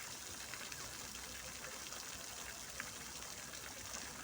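Fountain water falling and splashing: a steady hiss of water with scattered droplet patter.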